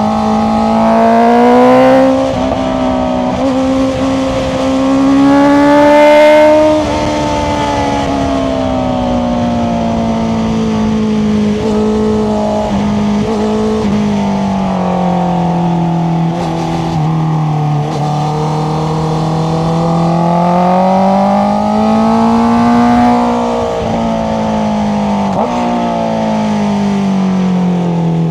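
Honda CBR650R's inline-four engine running through an Akrapovic exhaust while riding, the note rising under throttle twice early on and again about 23 seconds in, and otherwise sinking slowly as the revs fall.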